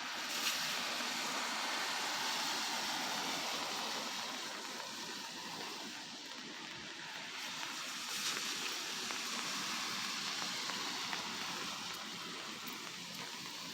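Steady hiss of rain and tyres on a wet street, swelling gently a couple of times.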